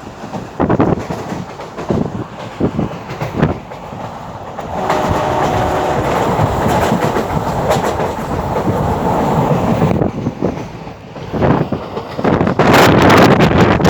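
Train running along the track, its wheels knocking irregularly over the rail joints, then a steadier rumble. Wind buffets the microphone loudly near the end.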